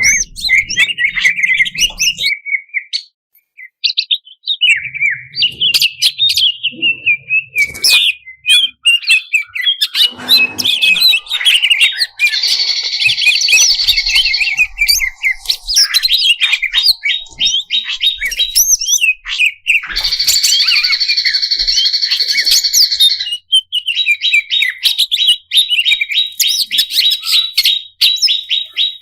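Cucak cungkok, a leafbird (cucak ijo), singing a fast, varied song of chirps, whistles and trills, with harsh buzzy rattles twice and a rapid run of repeated notes near the end.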